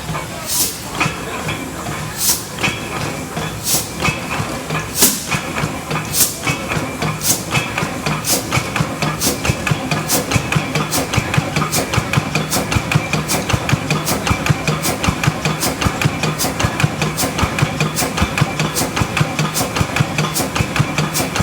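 Two-cylinder Page dragline engine running, its exhaust firing in sharp, regular cracks. The beats come about once a second at first and quicken steadily to about three a second as the engine picks up speed, over a steady mechanical hum.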